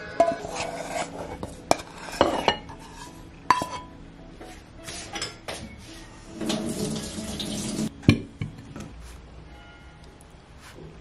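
Cookware clatter: a metal frying pan and utensil clinking and knocking against a glass bowl, with several sharp clanks in the first few seconds. Past the middle comes a rushing hiss lasting about a second and a half, followed by one more loud clank.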